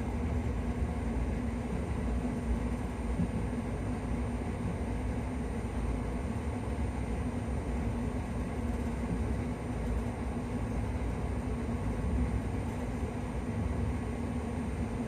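Steady low rumble of a moving vehicle, with a constant hum over it and no sudden events.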